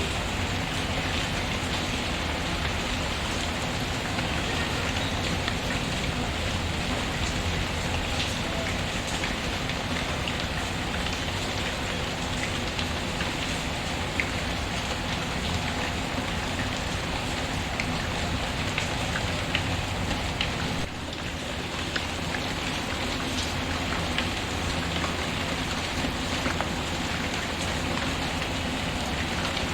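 Steady rain falling, with scattered small ticks of drops. The level dips briefly about two-thirds of the way through.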